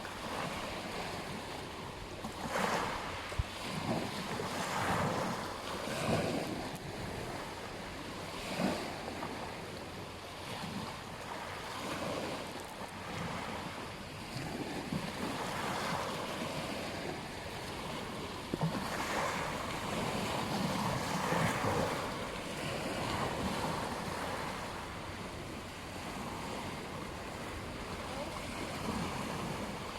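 Ocean waves breaking and washing on a beach, the surf swelling and easing every few seconds, with wind on the microphone.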